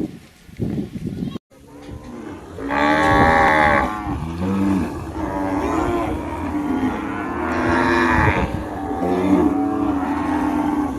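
Cattle mooing: two long, loud moos, the first about three seconds in and the second about eight seconds in, with quieter lowing between them.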